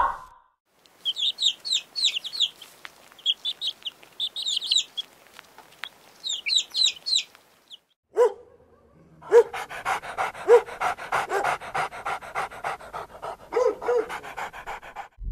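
Bird chirps in quick bursts of high, falling notes, then after a short pause a dog's rapid, even panting with a few short yips.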